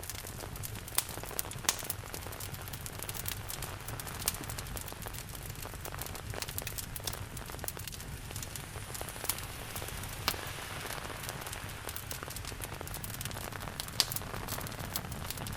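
Steady rain mixed with a wood fire crackling, with sharp pops scattered throughout, about five of them louder than the rest.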